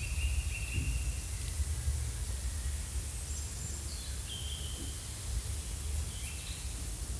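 Forest ambience: a few short, high bird calls, each held on one pitch, over a steady low rumble and a faint hiss.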